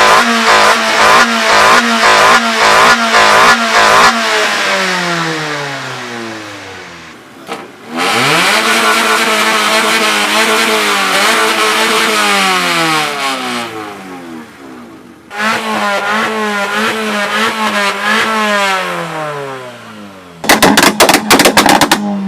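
A car engine revved hard through its exhaust at a standstill, three times. In the first rev the engine is held high with a rapid stutter; in the next two the revs shoot up and are held. After each one the revs fall away. Near the end comes a burst of loud, sharp exhaust cracks.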